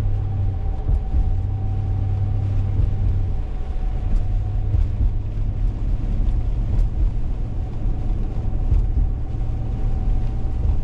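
Steady low rumble of a car's engine and tyres heard from inside the cabin while driving, with a thin steady whine running over it.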